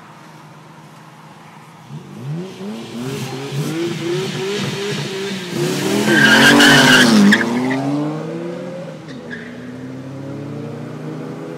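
Cars at full throttle in a drag race, a Nissan Skyline GT-R R33 with its RB26DETT twin-turbo straight-six and a BMW M3, their engines climbing in pitch in quick repeated rises from about two seconds in. The run is loudest about six to seven seconds in, with a high whine on top, then drops in pitch and settles to a steadier drone.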